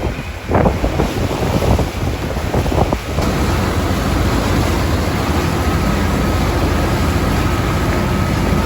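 Wind buffeting the microphone over open water, with a boat's engine running. It is gusty and uneven at first, and turns to a steady rumble about three seconds in.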